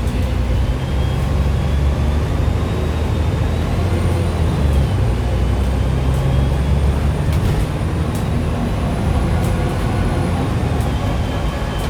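Dennis Trident double-decker bus engine running steadily under way, a heavy low drone. A faint high whine joins about four seconds in and fades near the end.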